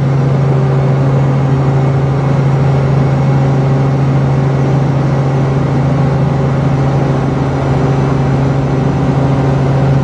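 Helicopter in flight: a loud, steady drone with a strong constant low hum.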